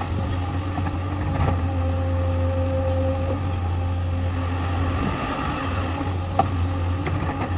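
Heavy diesel engine of a Hitachi hydraulic excavator running steadily with a deep hum, a higher whine rising over it for about a second near the middle, and a single sharp knock about six and a half seconds in.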